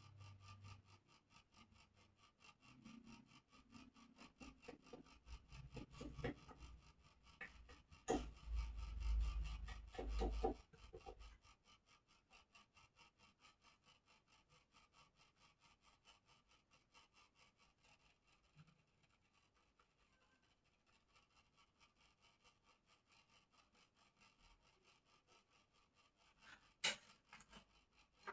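Faint rubbing and scraping from hand-smoothing a bird cage. A few knocks and handling bumps come in the first half, and one sharp click near the end.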